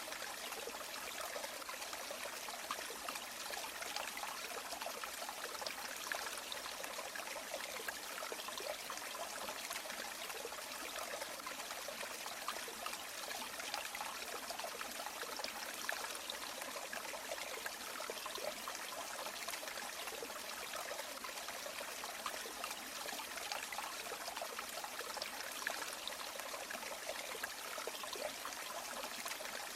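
River water flowing steadily, an even rushing sound with no pauses or changes.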